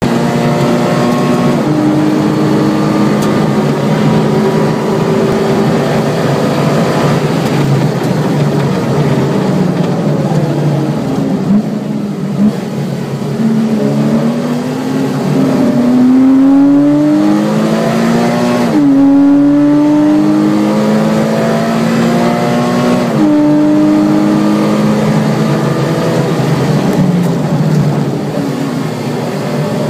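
Porsche Cayman S's 3.4-litre flat-six heard from inside the cabin on a racing lap: running at high revs, then braking with downshifts about a third of the way in, followed by hard acceleration with the revs rising through several upshifts.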